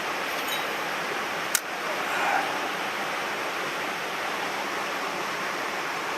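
Mountain stream water rushing steadily, with a single sharp click about a second and a half in.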